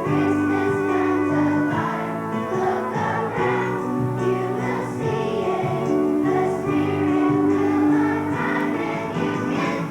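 Children's choir singing a song with instrumental accompaniment, sustained notes carrying steadily throughout.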